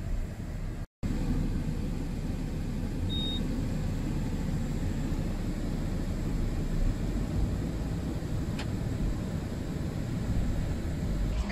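Steady low rumble with no clear engine pitch, broken by a split-second gap of silence about a second in.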